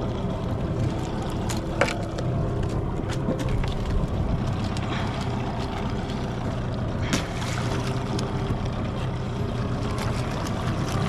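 A boat's engine running steadily with a low hum, with a couple of sharp knocks, one about two seconds in and one about seven seconds in.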